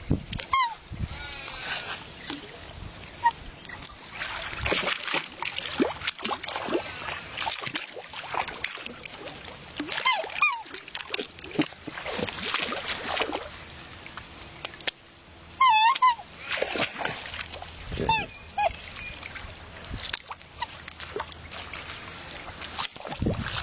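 Black swans giving short, high bugling calls every few seconds, several close together about two-thirds of the way through, over splashing water.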